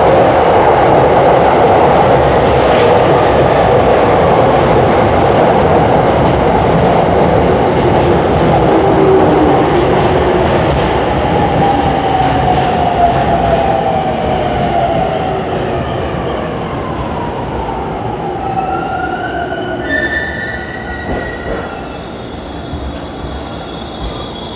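JR E231-series electric commuter train pulling into the platform and braking to a stop. Loud rolling wheel noise at first, then a motor whine falling in pitch as it slows, and high squealing tones near the end as it stops.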